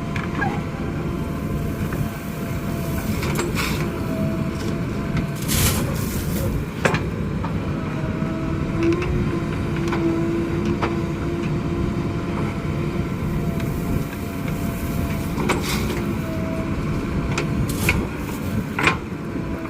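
JCB 3DX backhoe loader's diesel engine running steadily under work, with a steady whine and several sharp knocks and clanks scattered through.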